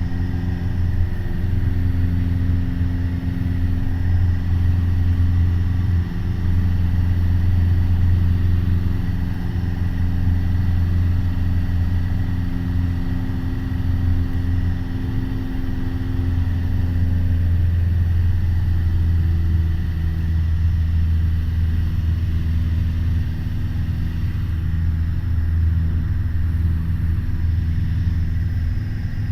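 Piper Warrior's four-cylinder Lycoming piston engine and propeller heard from inside the cockpit as a steady, loud drone in climbing or cruise flight. Its tone shifts slightly a little past halfway through.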